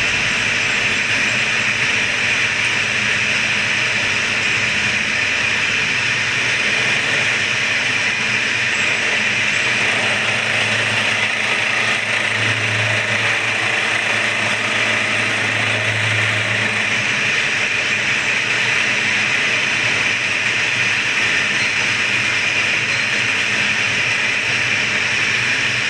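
Metalworking machine running steadily as it skims the face of a Yamaha V80 twin engine block, a continuous hiss-like machining noise; a low hum grows slightly stronger for a few seconds around the middle.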